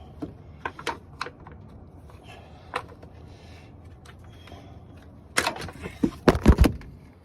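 Hand tool working on plastic clips and fan-shroud parts under the hood: a few light scattered clicks, then a burst of louder clattering knocks about five to seven seconds in.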